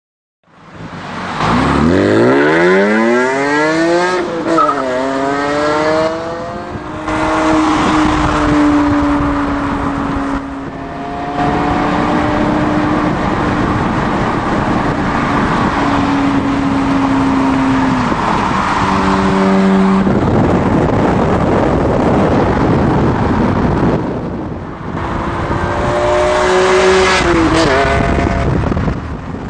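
BMW E46 M3's S54 straight-six running through a Rogue Engineering Diablo titanium aftermarket exhaust under hard acceleration: the pitch climbs steeply, drops at an upshift about four seconds in and climbs again. It then holds a long, slowly falling note, steps down in pitch around two-thirds of the way through, and rises again near the end.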